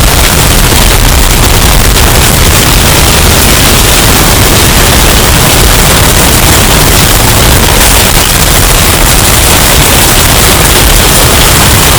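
Hurricane wind and rain sound effect, bass-boosted and overdriven into heavy clipping: a constant, harsh wall of distorted noise at full loudness, with no distinct events.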